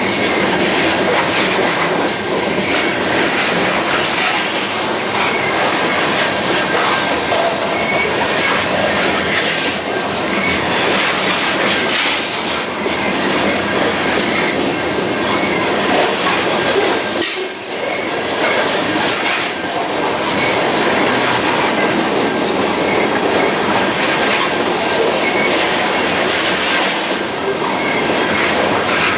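Norfolk Southern freight train of grain hopper cars rolling past, a loud, steady rumble of wheels on rail with repeated clicks over the rail joints and a thin steady high tone. The noise dips briefly a little past halfway.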